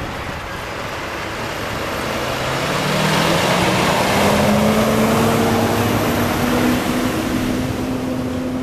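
Jet airliner engines, a broad rush that swells to a peak about halfway through and then eases, with a low hum that rises slightly in pitch and then holds steady.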